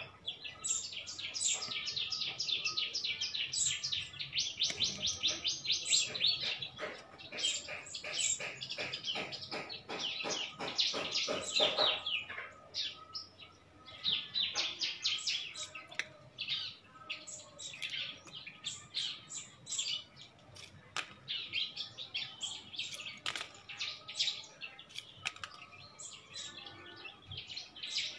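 A songbird chirping in rapid runs of short, high calls, almost continuous for the first twelve seconds or so, then in shorter bursts with gaps between.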